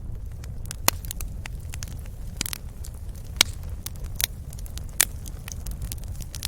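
Wood fire in a fireplace crackling, with irregular snaps and pops over a steady low rumble; three sharper pops stand out, about a second in, in the middle and near the end.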